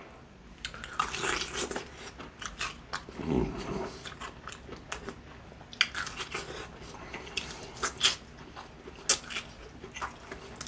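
Biting and chewing of crispy fried chicken dipped in sweet-and-sour and hot sauce: irregular crunches of the fried coating between quieter chewing.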